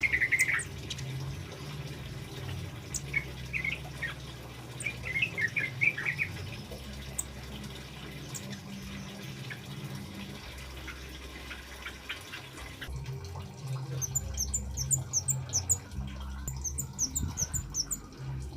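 Male kemade bird calling: scattered short chirps in the first third, then from about two-thirds in, quick runs of very high, thin notes. A steady low hum and a trickle of water lie under the first part.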